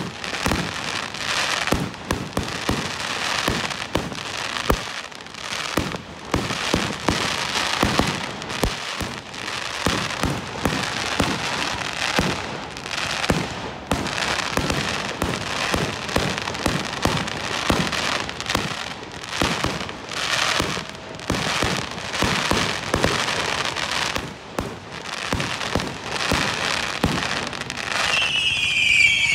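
Fireworks going off in a dense, continuous barrage of crackling and popping. Near the end a whistling firework starts up, its whistle falling in pitch.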